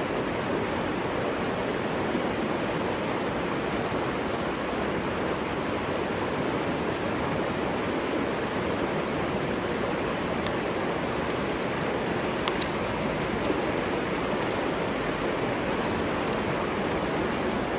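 River water flowing steadily, with a few faint sharp ticks, the clearest about twelve and a half seconds in.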